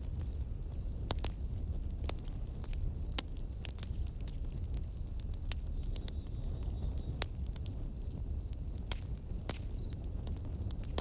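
Wood fire burning in a fireplace: a low steady rumble of the flames with irregular sharp crackles and pops.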